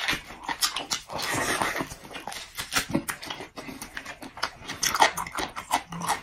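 Close-miked eating sounds of a person chewing and gnawing meat: irregular wet smacks, clicks and squelches.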